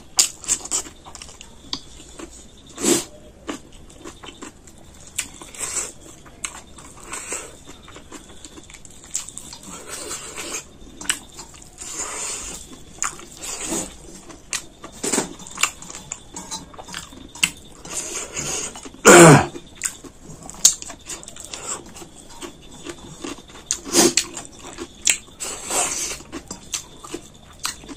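Close-up chewing and crunching of cucumber, rice and chicken curry eaten by hand, with irregular short crunches and mouth sounds; the loudest crunch comes about two-thirds of the way through.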